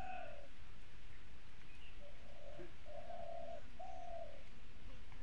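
A bird cooing in the background: a series of low, steady hoots, each about half a second long, over a constant low background hiss.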